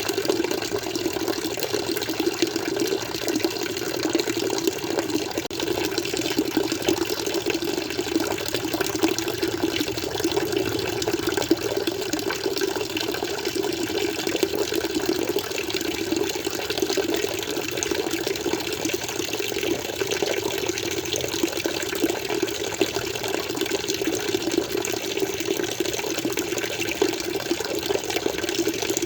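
Water flowing and splashing steadily, a continuous even rush with no breaks or changes.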